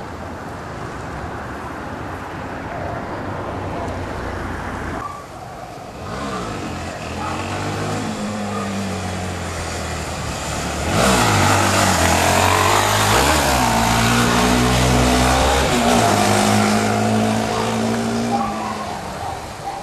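Single-cylinder four-stroke trail motorcycle engine revving, growing louder as it approaches, with the pitch dipping and climbing as the throttle is worked. It is loudest for several seconds in the middle, then fades away near the end.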